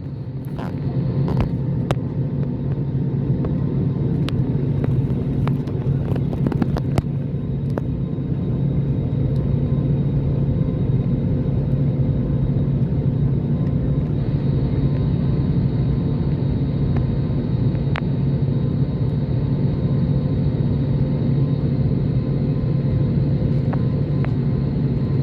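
Steady low drone of an Airbus A320's jet engines running at low power, heard inside the passenger cabin, with a few faint clicks in the first several seconds.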